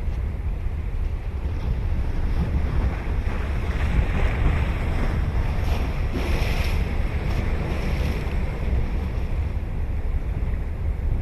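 Ocean waves breaking and washing in, one wash swelling about four seconds in and easing off after about seven, over a steady low rumble of wind on the microphone.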